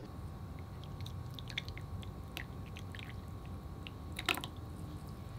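Faint chewing and biting into a financier, with scattered small mouth clicks and one sharper click about four seconds in, over a steady low hum.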